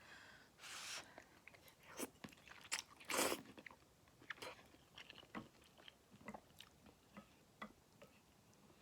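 Faint close-up eating sounds of ramen: chewing and wet mouth clicks, with two louder noisy sounds about a second and three seconds in.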